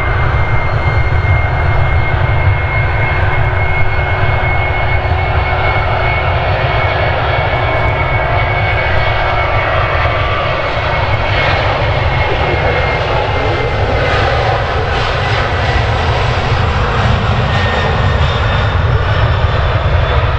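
Boeing 767-300 jet engines at takeoff power: a loud, steady rumble with a high whine that fades away about two-thirds of the way through.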